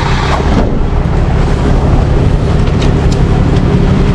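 A vehicle engine running at a steady idle, loud and close, a low even hum with no change in speed.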